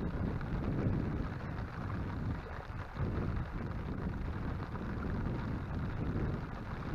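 Heavy thunderstorm rain with wind buffeting the microphone: a steady low rushing noise that swells and eases slightly.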